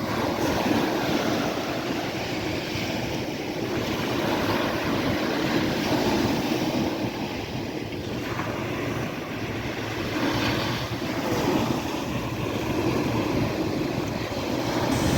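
Sea waves breaking and washing ashore: a continuous rushing surf that swells in several surges and falls back between them.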